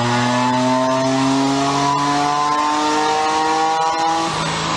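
Car engine accelerating hard, its pitch climbing steadily for about four seconds, then dropping near the end.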